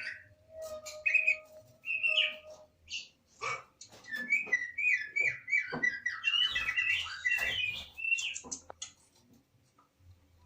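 Caged songbird singing: varied whistled notes and slurs, with a quick run of repeated chirps in the middle.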